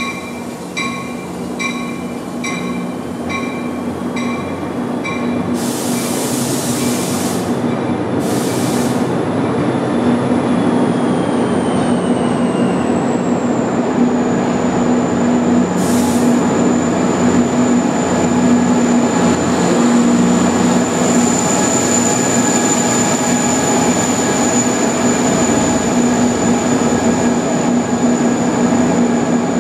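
Diesel-hauled NJ Transit push-pull commuter train departing an underground station, with a bell ringing about twice a second for the first few seconds and a few short air hisses. Then come the steady drone of the train rolling past and a high whine that slides down and then holds, all growing louder as the locomotive nears.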